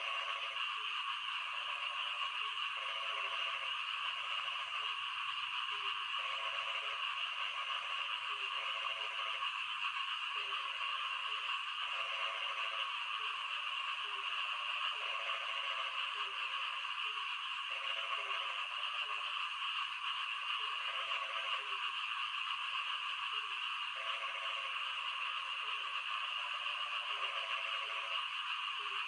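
Frogs croaking over steady rain: short runs of quick pulsed croaks repeat every second or two, with several frogs overlapping, above a continuous hiss of rainfall.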